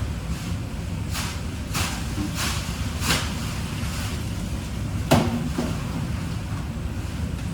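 Kitchen work sounds: five short clattering knocks, the loudest about five seconds in, over a steady low hum.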